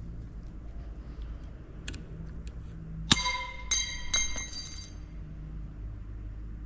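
Steel ringing on steel: one sharp metallic strike about three seconds in, followed by three lighter clinks, each ringing briefly, as a small part or tool is knocked and dropped on the metal workpiece. A low steady hum underneath.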